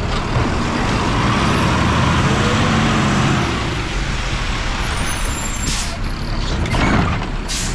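Mack LR garbage truck with a Labrie automated side loader running, its engine and noise swelling for the first few seconds. Near the end come two short sharp hisses and a knock.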